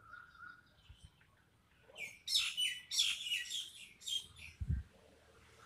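Small birds chirping in a quick run of sharp, high calls lasting about two seconds in the middle, followed by a single low thump near the end.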